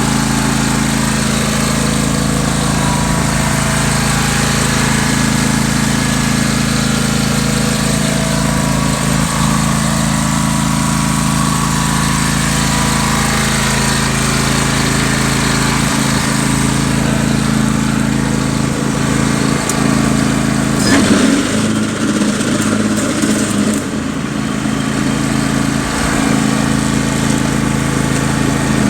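Husqvarna yard tractor's engine running steadily, with a brief change in its note about three-quarters of the way through before it settles again.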